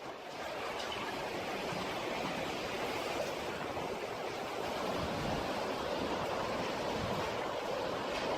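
Steady, loud rushing noise without any distinct knocks or tones, swelling slightly about two seconds in.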